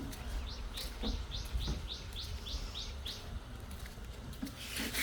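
A bird calling: a run of about eight quick high chirps, each dropping in pitch, about three a second, over a low steady rumble with a few scattered knocks.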